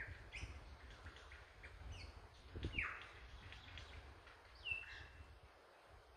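Birds calling in forest: scattered short chirps and whistles, with a louder downward-sweeping call a little before halfway and a short whistle later on, over a low rumble that fades out near the end.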